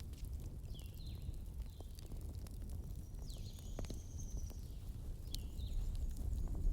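Firewood burning: scattered sharp crackles and pops over a steady low rumble, with short high chirps now and then.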